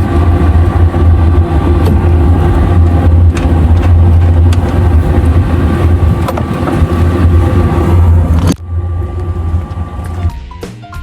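Dometic RV furnace running with its burner lit and blower fan on, its exhaust pipe off: a loud, steady low hum with a rushing noise. The sound drops away suddenly about eight and a half seconds in, and music begins near the end.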